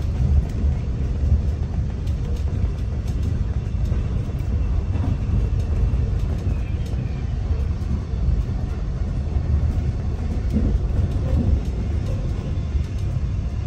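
Melbourne Metro suburban electric train running along the line, a steady low rumble heard from inside the carriage with a few faint ticks.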